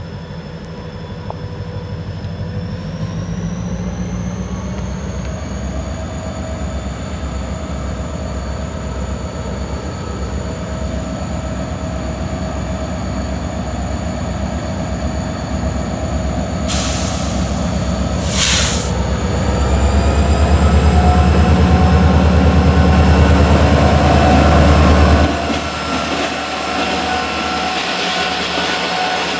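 EMD GP40-2 diesel locomotives running under load with the engine pitch rising a few seconds in. Two short bursts of air hiss come about halfway through. A heavy low rumble follows, which cuts off abruptly near the end.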